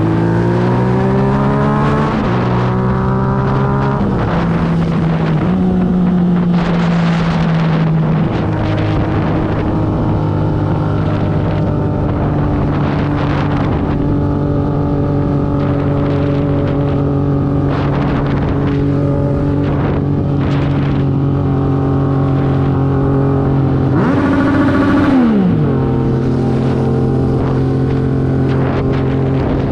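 Motorcycle engine under way, pulling up through the gears with two upshifts in the first few seconds, then running at a steady speed. Near the end it revs up briefly and drops off sharply with another shift.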